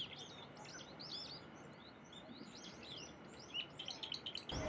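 Small wild birds chirping: a quick run of short, high chirps, several a second, over faint outdoor background noise. Just before the end the background suddenly gets louder.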